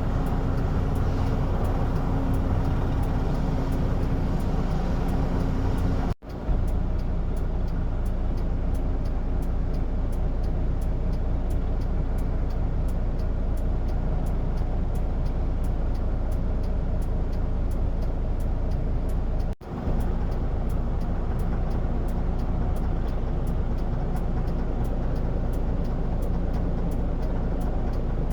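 Steady engine rumble with a deep low hum, broken twice by a split-second dropout.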